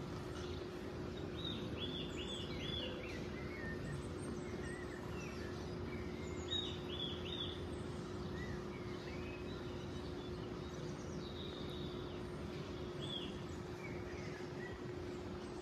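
Small birds chirping from a bird video playing on a phone: runs of three or four quick arched chirps a few times, with scattered short falling chirps, over a steady background hiss and a faint hum.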